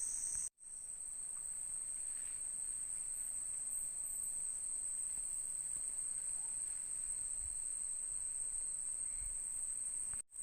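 Night-time insect chorus of the rainforest: a steady, high-pitched continuous trill. It cuts out for an instant just after the start and again near the end.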